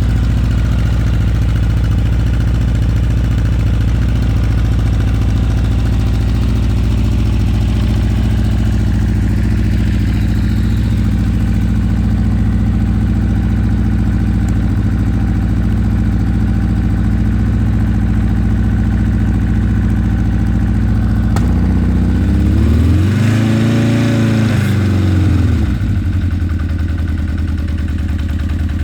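Honda CB900 Custom's inline-four engine idling steadily as it warms up, then revved once about three-quarters of the way through, the pitch rising and falling back to idle over a few seconds.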